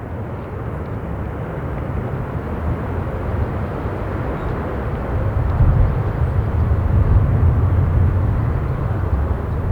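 Jet airliner's engine noise swelling to a peak about six seconds in, then easing slightly, mixed with low wind rumble on the microphone.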